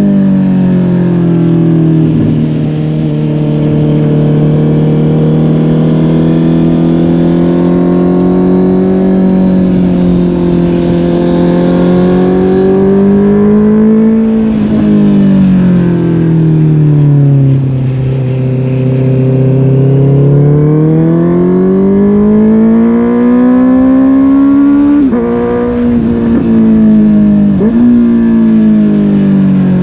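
Honda CB650R inline-four engine through a MIVV GP PRO Carbon aftermarket exhaust, heard from the rider's position while riding: the engine note rises and falls slowly as it accelerates and eases off, with a few sudden steps down in pitch in the last few seconds.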